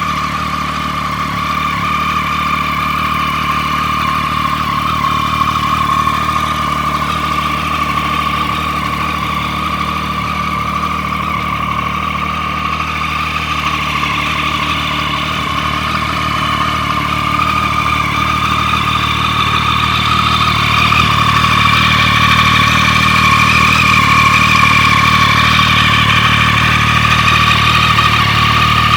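Triumph Street Triple 675R's 675 cc inline-three engine idling steadily, a little louder about two-thirds of the way through.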